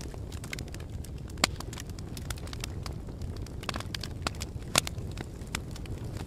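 Fire crackling: scattered sharp pops and snaps over a steady low rumble, with two louder pops about a second and a half in and near five seconds.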